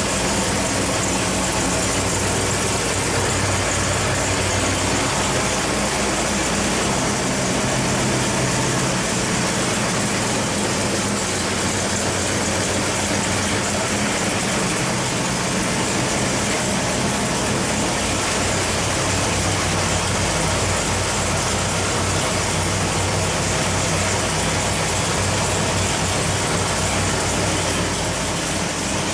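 540 cubic-inch big-block Chevrolet V8 running on an engine dyno at a steady, moderate speed, with no rev sweep; its pitch shifts only slightly about a quarter of the way in.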